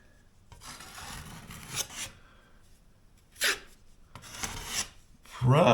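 Rubbing and scraping strokes as filler is worked and smoothed into a crack: a long stretch of rubbing, one short sharp scrape, then another short stretch of rubbing.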